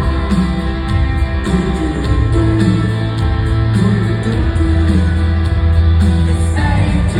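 Live rock band playing an instrumental stretch with no vocals: guitar over a steady, sustained bass line, recorded loud from the audience.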